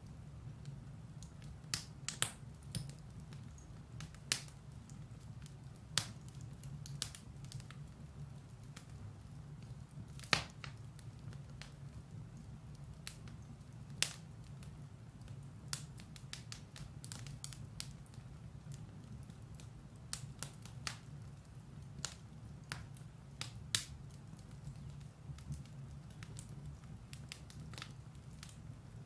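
Firewood burning in a fireplace: a steady low rumble of the fire with irregular sharp crackles and pops from the wood.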